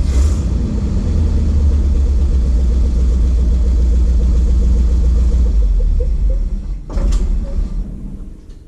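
Ford F700 truck's 370 V8 running steadily. A single knock comes about seven seconds in, then the sound fades away.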